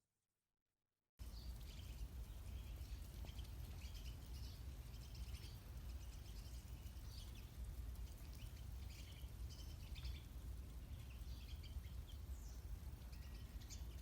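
Small birds chirping in short, scattered calls over a steady low rumble; it starts about a second in.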